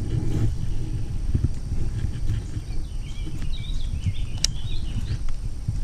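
Steady low rumble on the microphone with scattered light clicks, and a songbird singing a short warbling phrase from about three seconds in. A single sharp click sounds just after four seconds.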